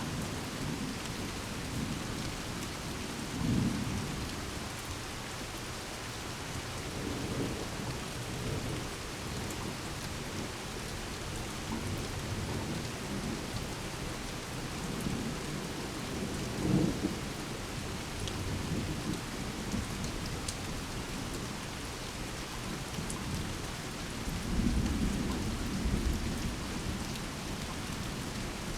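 Steady rain with thunder rumbling several times, the loudest rolls a few seconds in, around the middle and near the end.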